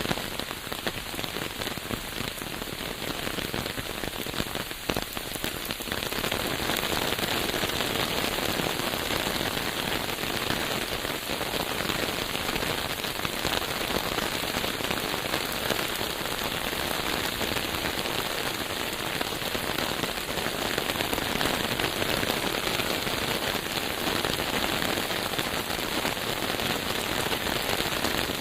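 Steady rain falling, a dense patter of drops, growing heavier and louder about six seconds in.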